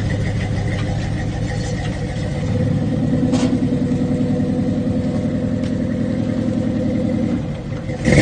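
Dodge Charger's swapped-in Scat Pack 6.4-litre 392 HEMI V8 running. About two and a half seconds in it is held at a higher steady rev for around five seconds, then it drops back, with a brief loud burst at the very end.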